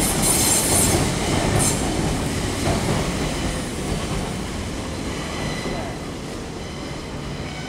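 Tobu Railway train running along an elevated viaduct, the rumble of wheels on rail dying away over several seconds as it moves off, with a faint high squeal above it.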